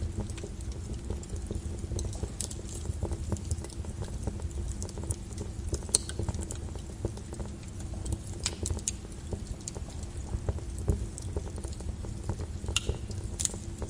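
Wood fire burning low in a fireplace, crackling with irregular sharp pops over a steady low rumble of the flames. A few pops stand out louder, one about six seconds in and another near eleven seconds.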